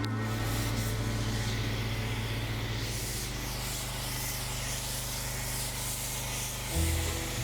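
Foam cannon on a pressure washer spraying wash soap in a steady hiss, over the steady low hum of the running washer.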